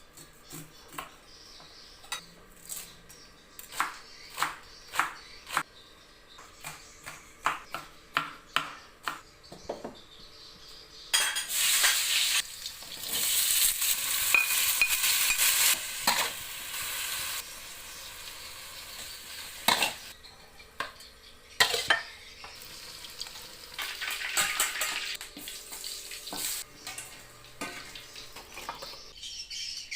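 Pan cooking: a utensil taps and clinks against a pan or pot, then about eleven seconds in a loud sizzle of frying starts suddenly and runs for several seconds before easing. More stirring clinks and a second, weaker sizzle follow later.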